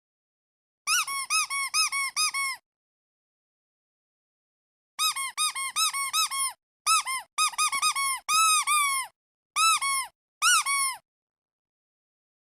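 Rubber duck squeeze toy squeaking in quick runs. It gives a burst of about seven short squeaks, then after a pause a longer string of squeaks, some of them drawn out. Each squeak rises and falls in pitch.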